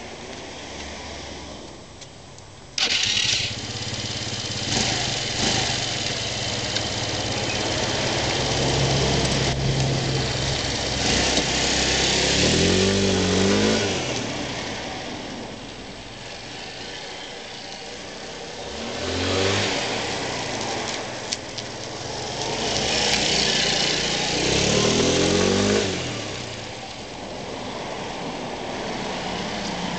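Kymco V-Link 125 scooter's single-cylinder four-stroke engine starting about three seconds in, then idling and being revved up and back down three times.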